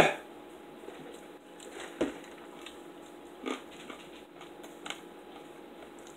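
Bacon bitten and chewed: a loud crunchy bite at the very start, then quiet chewing with a few soft mouth clicks.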